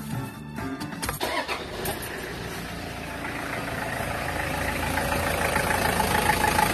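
Car engine starting about a second in on a very short crank, then idling steadily, growing louder toward the end. The quick start comes from a supercapacitor connected across the battery, which makes the engine catch almost at once.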